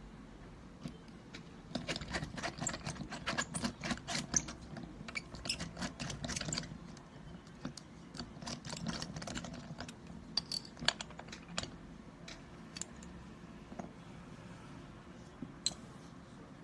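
Quick small clicks and taps of plastic parts and small tools as an IQOS heated-tobacco device is handled during repair. The clicking comes in dense flurries for a few seconds, then thins out to occasional single clicks.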